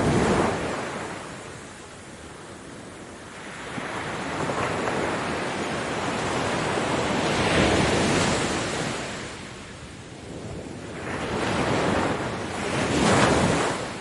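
Ocean waves breaking and washing up a beach, the surf swelling and falling off in repeated surges: one at the start, a longer build peaking about halfway through, and two more close together near the end.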